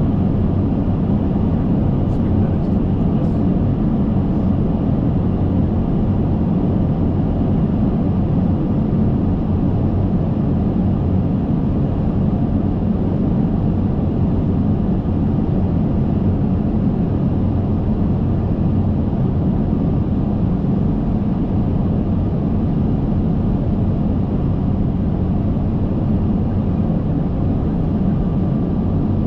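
Steady flight-deck noise inside an Airbus A380 cockpit on approach: an even, low rush of airflow and engine drone that does not change.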